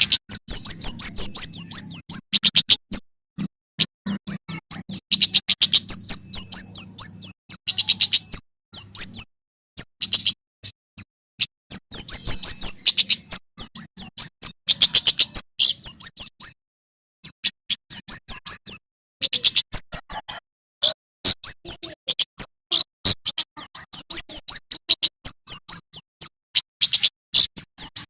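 Male prenjak keres (kemade) singing: fast runs of sharp, high chirps in loud bursts, several phrases broken by short pauses, with a faint low hum under the first half.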